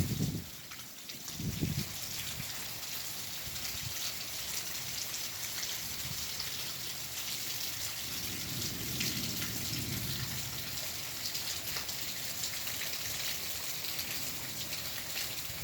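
Rain falling steadily, with a short low thump about a second and a half in and a soft low rumble around the middle.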